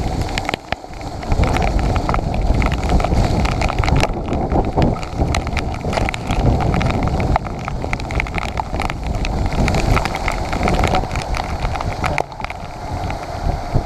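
Mountain bike ridden on a wet trail in heavy rain: wind buffets the camera microphone in a steady low rumble, and the bike gives many quick rattles and knocks over the rough ground.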